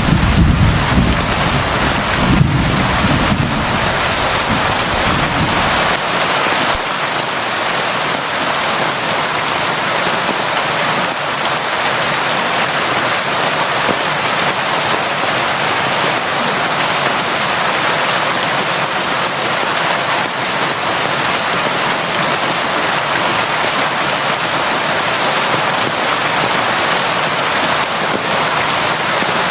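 Steady heavy rain, an even dense hiss of drops. A low rumble underneath fades out about six seconds in, and the rain carries on unchanged.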